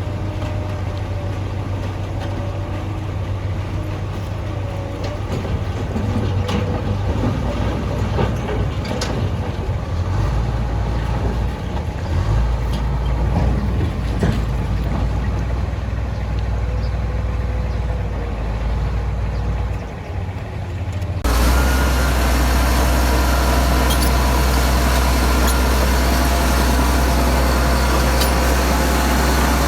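Diesel engines of heavy earthmoving machinery running, with scattered metallic clanks over a low rumble. About two-thirds of the way through, the sound switches abruptly to a louder, steadier engine drone.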